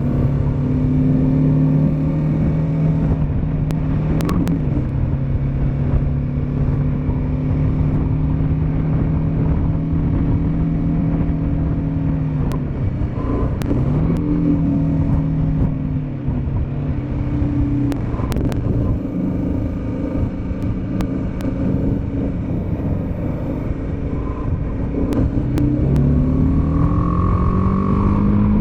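Motorcycle engine running at a steady cruising pace under rushing wind and road noise. The engine note dips twice, about twelve and eighteen seconds in, then climbs steadily near the end as the bike accelerates.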